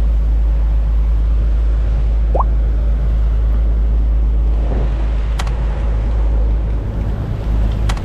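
Fishing boat's engine running, a steady low rumble, with two short rising squeaks early on the first seconds and two sharp clicks later.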